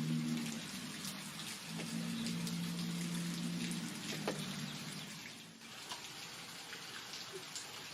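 Rain pattering, with scattered distinct drops, over a low steady hum that breaks off briefly near the start and stops about five and a half seconds in.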